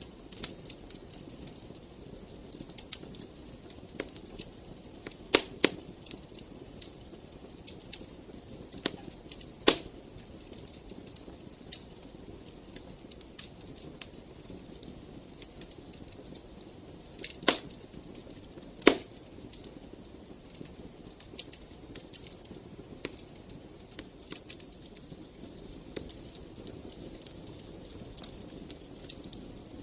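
Wood fire crackling in a fireplace: irregular sharp pops and snaps, a few louder ones, over a low steady rush of flames.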